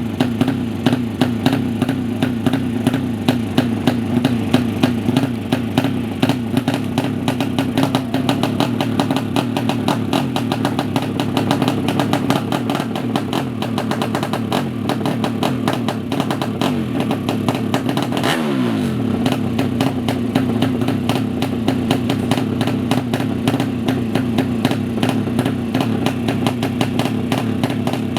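Yamaha MX drag-racing motorcycle engine with a double open exhaust running at a fast, uneven idle with a rapid rattling crackle. It is blipped once, briefly, about two thirds of the way through.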